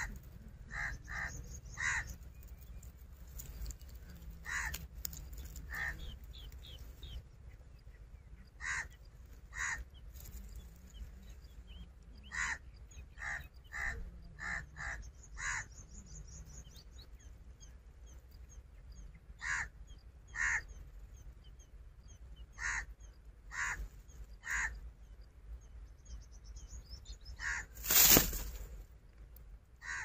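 Bird calling in short groups of two to five sharp, harsh notes, with pauses of a few seconds between groups. A brief loud burst of noise about two seconds before the end.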